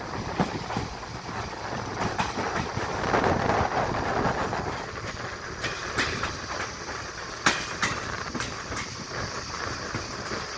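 Noise of a train running on the line, with irregular sharp clicks of wheels over rail joints.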